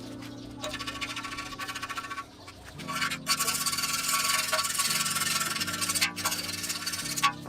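Old paint being scraped off a Yamaha DT125's steel frame after paint stripper: a rough scraping and rubbing noise, loudest from about three seconds in until near the end, over background music with sustained chords.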